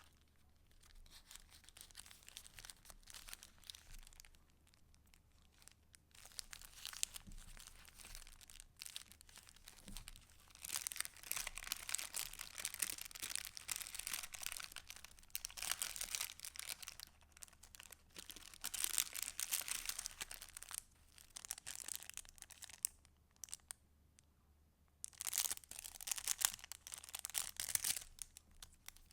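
Paper rustling and crinkling as the pages and paper pieces of a handmade junk journal are handled and turned. It comes in several stretches, with short lulls a few seconds in and again near the end.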